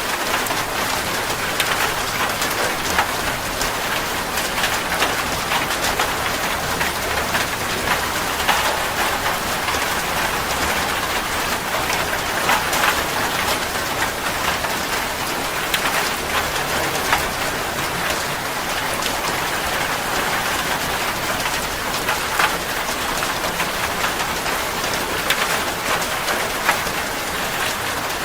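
Steady rain falling on a surface, a continuous hiss dotted with many individual drop patters.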